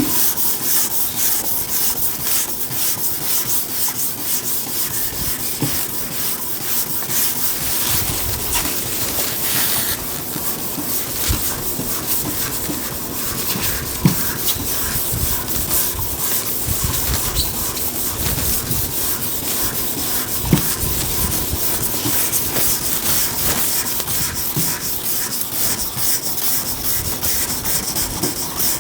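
Sanding on a car body panel: a steady, fast, rough rubbing that runs on without a break.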